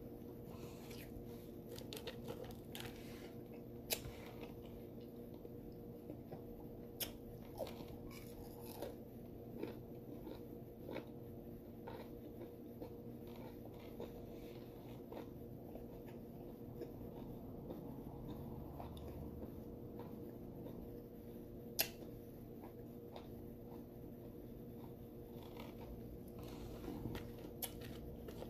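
Close-up eating sounds: biting into and chewing a stuffed cheeseburger on soft potato bread, with wet mouth clicks and smacks, two of them sharper than the rest. A steady low hum runs underneath.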